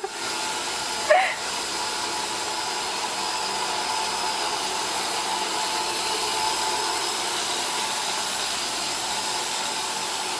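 iRobot Roomba robot vacuum running steadily, its motor and brushes giving an even whirring noise.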